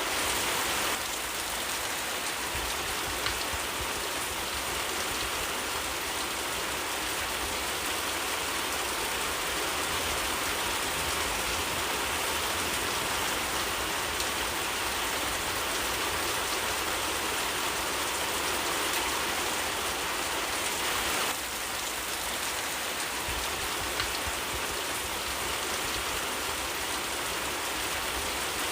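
Steady rain falling in a forest: a dense, even hiss with a few faint drip ticks. The level dips slightly about a second in and again about two-thirds of the way through.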